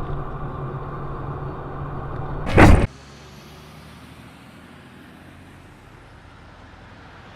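Vehicle engine and road noise heard from inside the cab, broken about two and a half seconds in by one sudden loud bang of a collision. After it the sound drops to a much quieter hiss.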